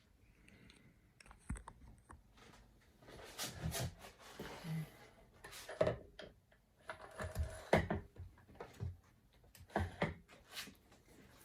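Irregular clicks, taps and knocks of hard objects being handled, some with a short metallic ring, coming several times over the stretch.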